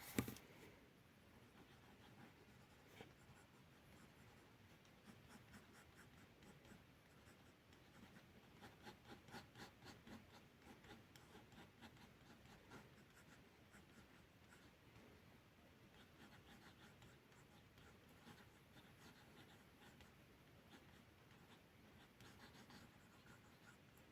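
Faint scratching of drawing strokes on paper, in runs of short strokes, busiest from about eight to eleven seconds in.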